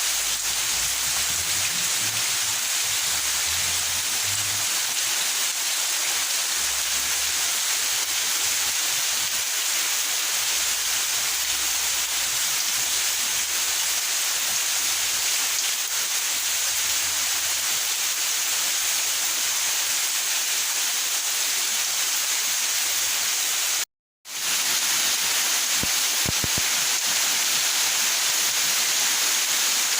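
Steady rain falling, an even hiss that cuts out for a moment about 24 seconds in.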